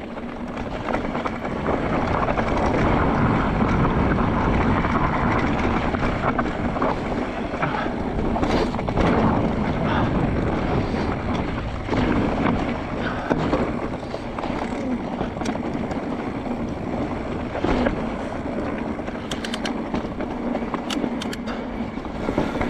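Wind rushing over an action camera's microphone, with the tyres of a Mondraker Crafty R electric mountain bike rumbling over a dirt trail on a fast descent. Sharp knocks and rattles from the bike hitting bumps come through now and then, with a quick run of clicks near the end.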